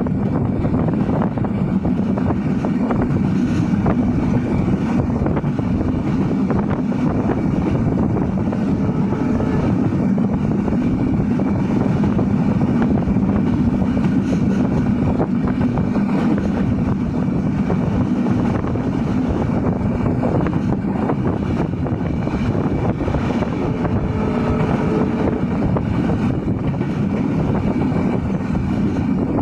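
Passenger train running at speed: a steady, loud rumble of the carriage and wheels on the track, with wind buffeting the microphone.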